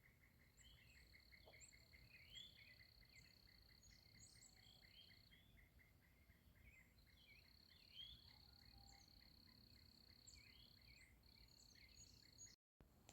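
Faint outdoor chorus of many birds chirping, with an insect's long steady high buzz that stops for a while midway and a steady pulsing chirp running under it. The sound breaks off briefly near the end.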